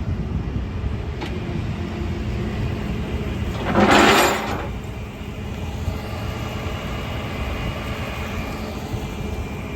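Tow truck's engine running steadily with a low rumble, and one loud hissing burst about four seconds in.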